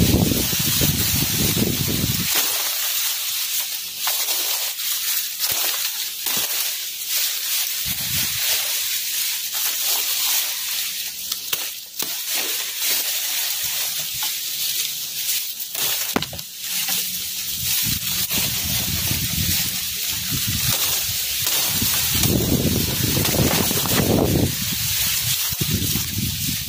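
Strong wind gusting onto the microphone with a low rumble, heavy at the start and again through the second half, over a steady hiss with scattered crackling rustles.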